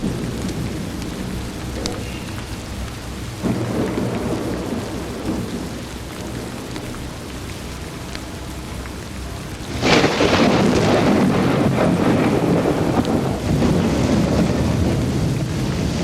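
Thunderstorm with steady rain: a lighter roll of thunder about three and a half seconds in, then a loud clap of thunder about ten seconds in that rumbles on for several seconds.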